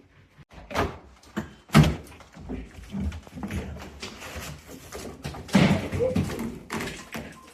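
A series of heavy knocks and thuds, irregularly spaced, the loudest about two seconds in, with a busier stretch of knocking and scraping near the end.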